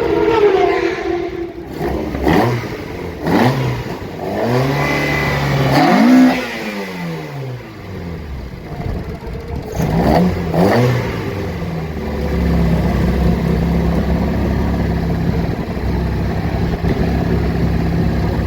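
Race car engines at full throttle passing one after another, each note rising and then falling in pitch as the car goes by. From about twelve seconds in, a steadier engine note holds.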